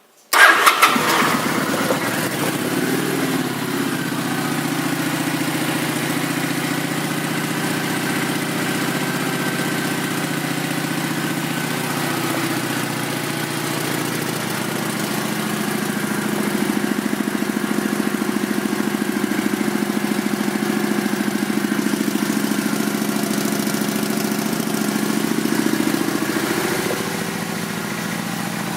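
2008 Kawasaki Vulcan 900 Classic LT's V-twin engine starting up within the first second, then idling steadily.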